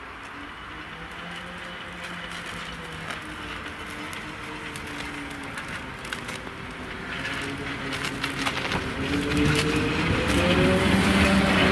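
A Polish EU07-family electric locomotive hauling a passenger train, running slowly towards and past the listener. Its motors hum and grow steadily louder as it draws near, loudest as the locomotive comes alongside near the end, with scattered clicks of wheels over the rails.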